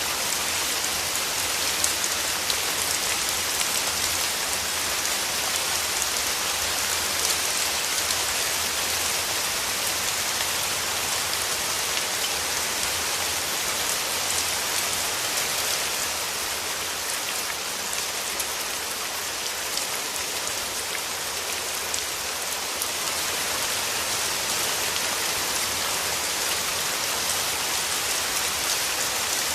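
Steady rain falling, with drops pattering on a surface.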